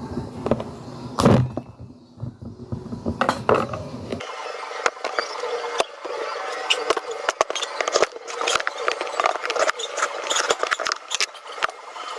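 Kitchen food-preparation sounds: utensils clicking and knocking against dishes. From about four seconds in there is dense clicking and scraping.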